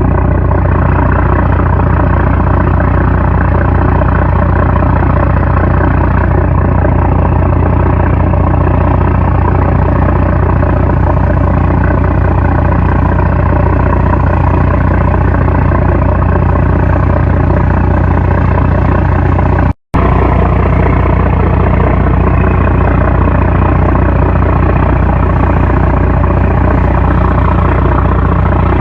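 A 750-horsepower trawler's diesel engine running steadily with a loud, deep drone. It cuts out for an instant about two-thirds of the way through, then resumes unchanged.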